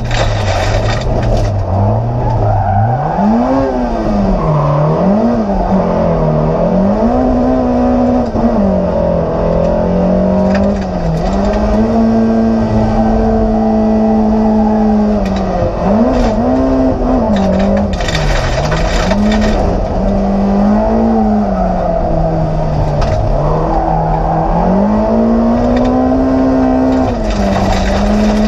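Rallycross car's engine heard from inside the cabin, running at race speed. Its pitch wavers low for the first couple of seconds, then rises and falls repeatedly through gear changes and corners, with a few held stretches on the straights.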